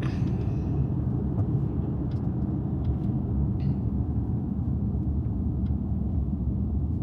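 Car road noise: a steady low rumble of engine and tyres, with a few faint light ticks.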